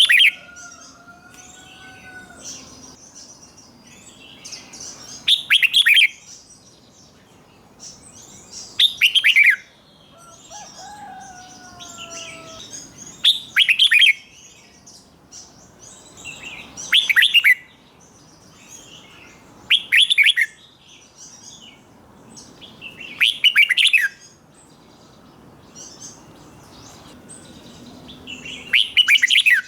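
Red-whiskered bulbul singing its repeated song: short, loud, bright phrases that sweep down in pitch, about one every three to four seconds, with softer chirps and a few faint whistles in between.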